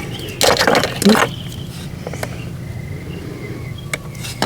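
A brief rustle or scrape of handling from about half a second to a second and a quarter in, then a few light clicks, over a steady low outdoor background with faint chirping.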